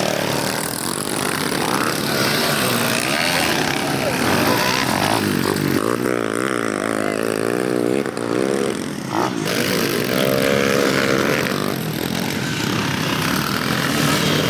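Small pit bike engines running and revving up and down as the bikes ride, the pitch rising and falling over and over through the middle of the stretch.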